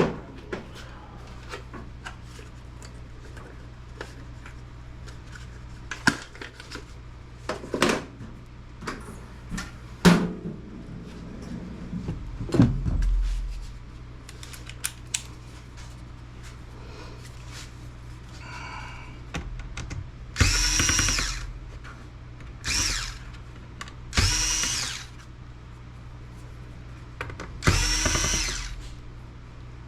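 Power screwdriver spinning Phillips screws out of a laptop case in about five short runs of a second or so each, in the second half. Before that come scattered clicks and knocks of handling the laptop and tools.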